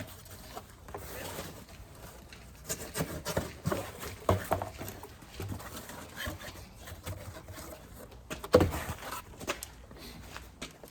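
Scattered knocks and clicks of wooden hive frames and boxes being handled, with one louder thump about eight and a half seconds in.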